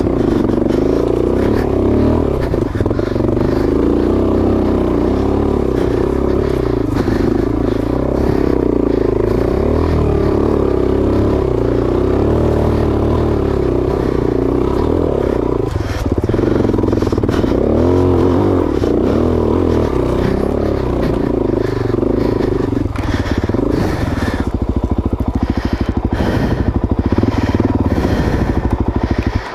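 Suzuki DRZ400S single-cylinder four-stroke engine working hard up a steep dirt trail, its revs rising and falling as the throttle is worked. It briefly drops off twice. Clattering and scraping knocks come through, thickest in the last few seconds.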